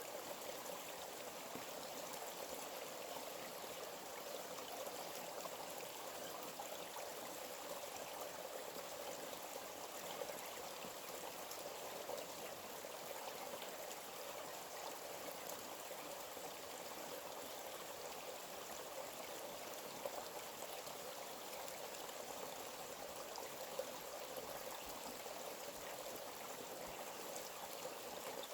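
A forest stream flowing steadily: an even rush of running water, with a few faint clicks scattered through it.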